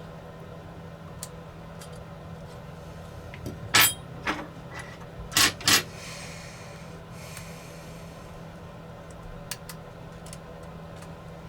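Small hand tools and drone parts clicking and tapping on a repair bench: a cluster of four sharp clicks in the middle, then a few faint ticks, over a steady low hum.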